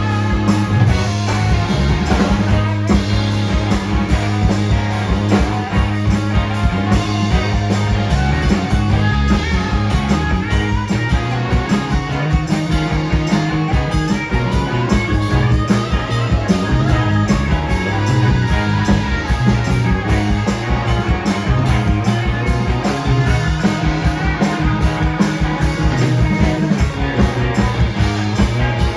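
Live rock band playing an instrumental passage of a psychedelic rock song: electric guitar over bass and a drum kit keeping a steady beat.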